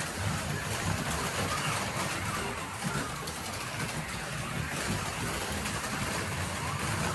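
Several HO slot cars running laps on a plastic track: a steady whir of small electric motors and pickups on the rails, with the pitch gliding up and down as the cars speed up and slow.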